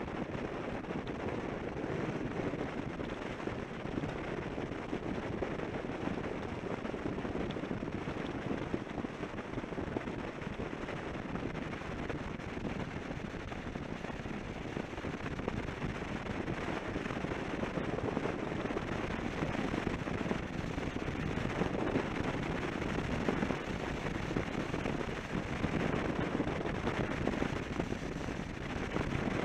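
Wind and road rush on the microphone of a camera on a Suzuki V-Strom 650 motorcycle at road speed: a steady dense roar broken by constant crackling buffets.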